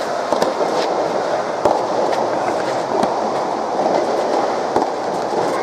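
Busy soft tennis venue din: many voices blending into a steady murmur, with scattered sharp pops at uneven intervals, typical of rubber soft tennis balls being struck on nearby courts.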